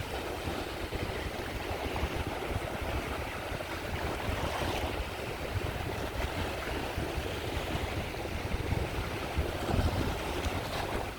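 Sea waves breaking and washing on a shore in a steady rush of surf with a low rumble. Washes swell a little about halfway through and again near the end.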